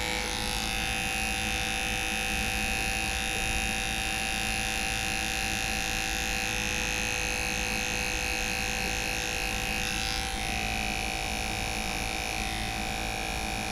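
Electric dog grooming clipper running steadily as it trims paw fur, with a slight change in pitch about ten seconds in.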